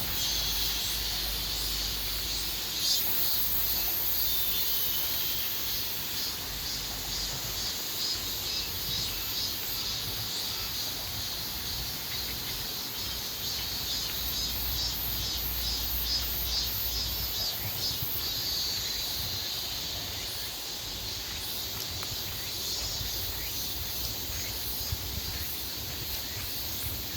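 Summer insect chorus of cicadas and crickets: a continuous high buzzing, with rapid, regular pulsing chirps higher still, over a low rumble.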